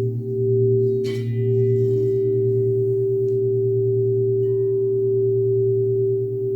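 Crystal singing bowls ringing in long sustained tones, a low hum under a clearer higher tone. About a second in, a bright struck note with shimmering high overtones sounds over them and fades.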